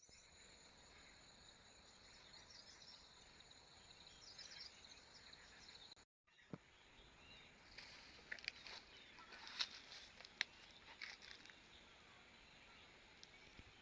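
Faint rural outdoor ambience: a steady insect hum and hiss with birds chirping, the chirps busiest in the second half. The sound drops out completely for a moment about six seconds in.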